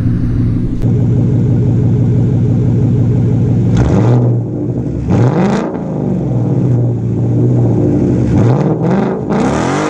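Ford Mustang GT's 5.0 V8 idling steadily through a straight-piped exhaust, then revved about three times, the pitch rising and falling with each rev.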